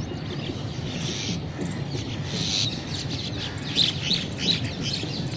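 Birds calling outdoors: a run of short squawks and chirps that grows busier from about two seconds in, over a steady low background rumble.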